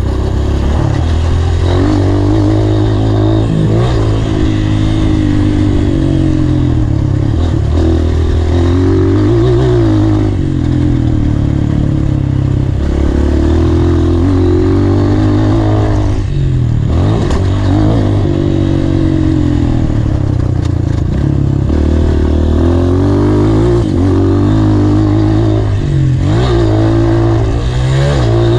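Honda CRF230 dirt bike's single-cylinder four-stroke engine revving up and down under riding, its pitch rising and falling over and over as the throttle opens and closes. The throttle shuts off briefly several times along the way.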